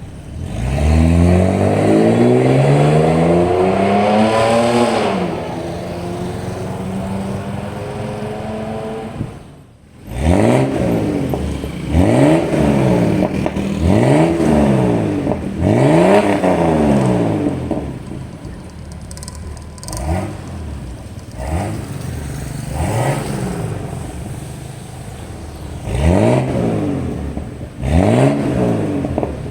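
Mercedes-Benz G300 engine revving through an aftermarket TECHPRO valvetronic performance exhaust. One long rev rises for about four seconds and falls back to a steady idle. After a short break about ten seconds in comes a run of quick throttle blips, each rising and falling, with idle between.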